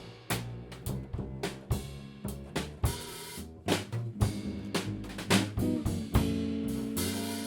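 Live band music driven by a drum kit, with rapid bass drum and snare hits over low bass notes. Held, pitched notes come in near the end.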